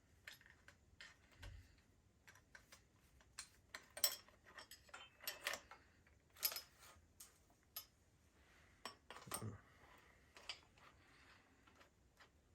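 Irregular light clicks and clinks of small parts and tools being handled during bicycle repair work.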